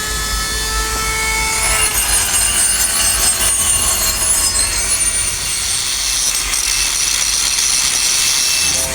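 Power tool working metal: a high whine rising slightly in pitch for about the first two seconds, then a steady high-pitched grinding hiss.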